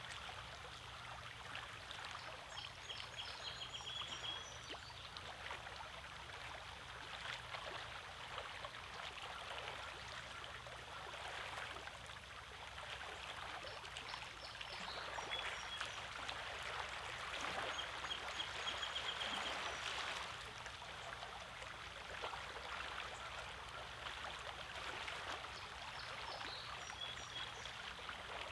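Small lake waves washing and trickling over the rocks of a shoreline, a continuous uneven splashing that swells louder for a few seconds about halfway through.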